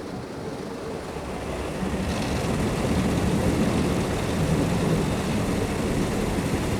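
Rotating brushes of an Istobal M12 rollover car wash scrubbing over the car, heard from inside the car's cabin as a steady noise that grows louder about two seconds in.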